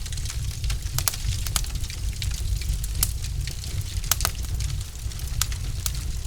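Wood logs crackling in a fireplace: a dozen or so sharp, irregular pops and snaps over a steady low rumble of the burning fire.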